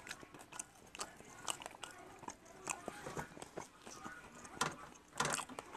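Close-up mouth sounds of someone chewing soft, sticky steamed ma-ku tuber: many short wet smacks and clicks of lips and tongue, louder about five seconds in.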